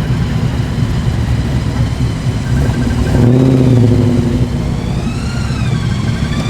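Muscle car engine rumbling low and steady as the car rolls by, its note swelling louder about three seconds in. Near the end a high whine dips in pitch and rises again over the rumble.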